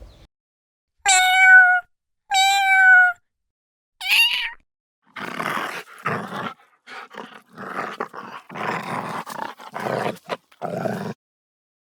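A cat meowing twice in clear, slightly falling calls, then a shorter rising call, followed by a string of rough growls.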